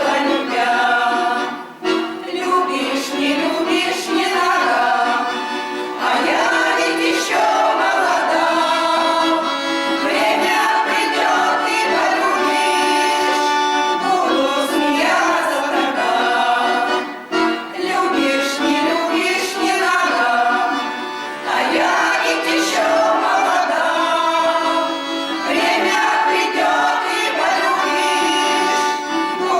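A song performed by singers with instrumental accompaniment, with sustained sung notes and short breaks between phrases.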